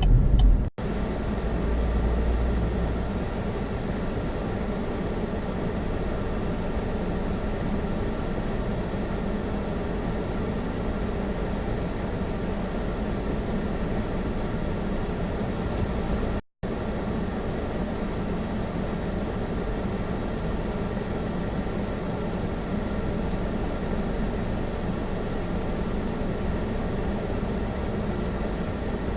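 Steady engine and road noise inside a Chevy Spark's cabin while driving. The sound cuts out briefly twice, about a second in and about halfway through.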